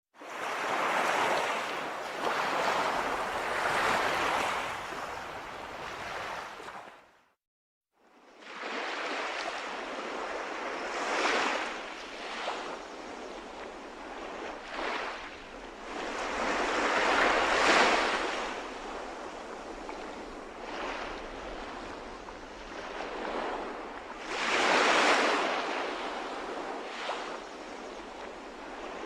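Sea waves surging and washing in, the rush of water swelling and fading every few seconds. The sound drops out completely for under a second about seven seconds in.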